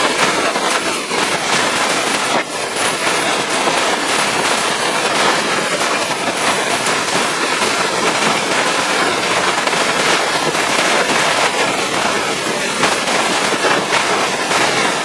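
Pressure washer's high-pressure water jet spraying against a truck's surfaces: a steady loud hiss of spray with a dense spattering crackle.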